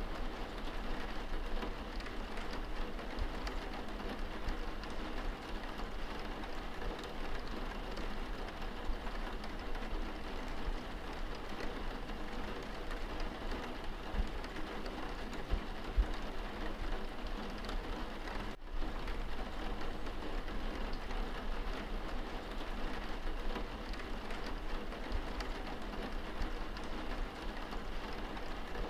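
Steady rain on window glass, heard from indoors: an even hiss of falling drops with faint scattered ticks. It cuts out for an instant about two-thirds of the way through.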